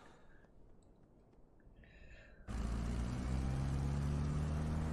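A vehicle engine running with a steady low hum, starting suddenly about halfway through, heard through the anime's soundtrack.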